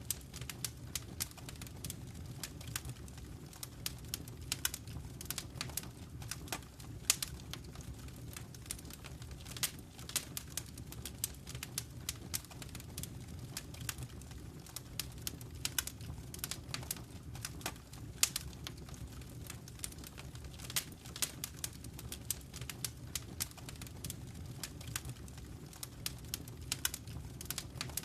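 Wood fire in a fireplace crackling, with many irregular sharp pops and snaps over a low, steady rumble.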